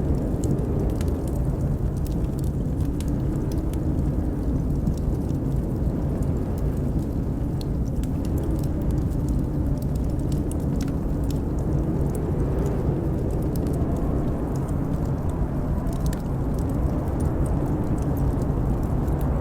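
Howling blizzard wind: a steady low rumble with a moaning tone that slowly rises and falls, while a wood fire in a fireplace crackles with frequent small pops.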